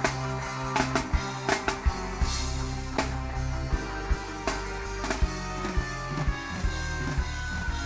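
Live band playing instrumental reggae, with drum kit hits over steady bass notes and guitar.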